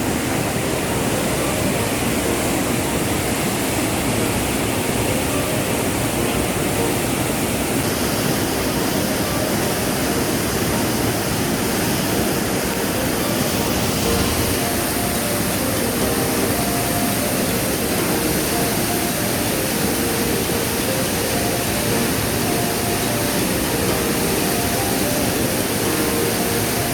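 Waterfall: heavy water plunging and rushing in a steady, loud roar.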